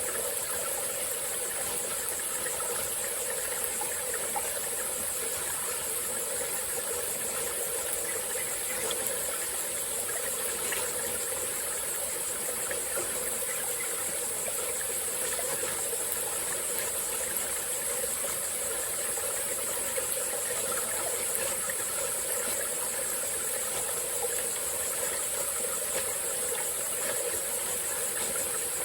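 Small tropical forest stream flowing steadily, under a continuous high-pitched insect chorus.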